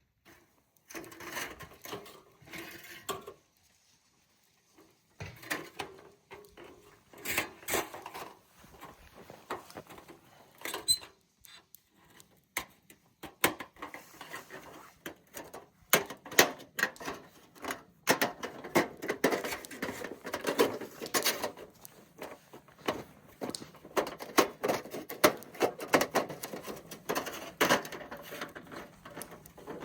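Gear being handled at close range: an irregular run of light clicks, knocks and rustling, busier and louder from about halfway through.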